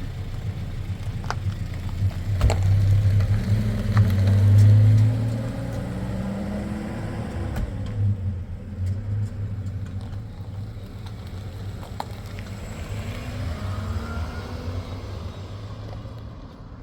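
Motor vehicle engine running under a low rumble, its pitch rising and falling as it changes speed, with a few sharp knocks.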